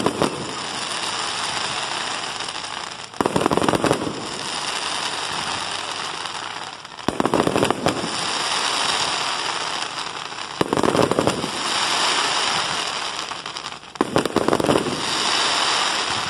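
Aerial fireworks shells bursting in five volleys of sharp bangs, about every three and a half seconds. After each volley comes a dense crackling hiss from the sparkling stars, fading over a few seconds.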